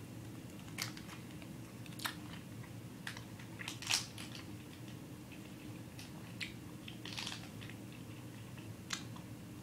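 A person chewing a soft, chewy grape Hi-Chew candy close to the microphone: irregular wet clicks and smacks of the mouth, a few a second, over a steady low hum.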